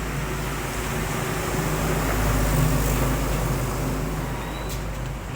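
A vehicle engine running with a steady low hum, growing louder toward the middle and then easing off.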